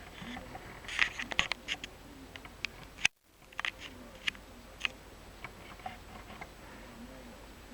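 Scattered light clicks and taps at an irregular pace in a quiet small room, a cluster of them about a second in and a sharper click just after three seconds, where the sound briefly drops out entirely.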